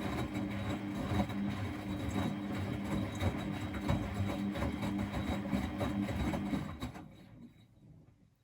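Miele Novotronic W921 washing machine running, its drum motor humming under irregular knocks. About seven seconds in the motor stops and the sound dies away.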